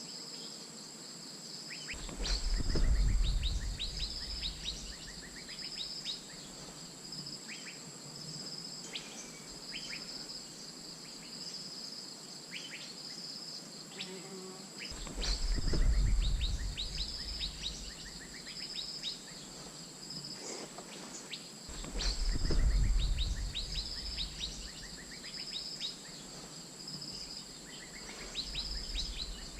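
Asian fairy-bluebird calls: short, sharp notes repeated in clusters over a steady high insect drone, with three loud low rumbles about 2, 15 and 22 seconds in.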